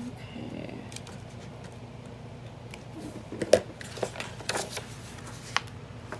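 An old book being handled as it is taken apart: paper and cover shifting, with a few sharp clicks and taps, the loudest about halfway through.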